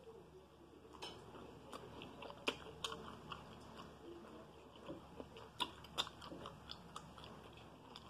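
Close-miked eating of toast: chewing with irregular wet mouth clicks and soft crunches, a few sharper ones about two and a half seconds in and again around six seconds in.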